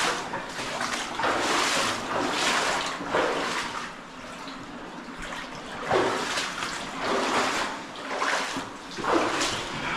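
Water splashing and sloshing as someone moves through shallow water, in uneven surges about a second apart, easing off for a moment near the middle.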